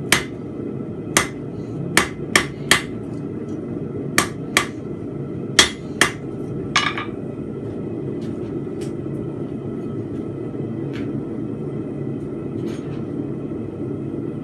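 Blacksmith's hammer striking steel bar stock on an anvil while forging fence pegs: about ten uneven blows in the first seven seconds, the last one ringing briefly, then only a few light taps. A steady low rushing noise runs underneath.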